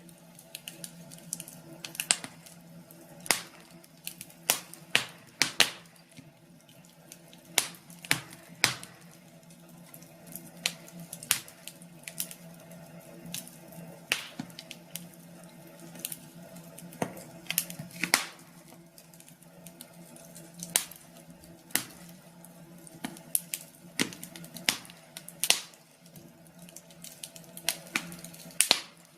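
Wood fire crackling: sharp, irregular pops and snaps about once a second or more, over a faint steady hum.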